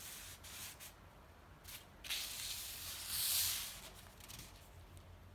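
Aerosol spray can hissing in short bursts, the longest and loudest spell about three seconds in.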